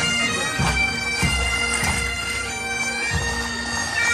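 Bagpipes playing a tune over their steady drone, with repeated low thuds beneath.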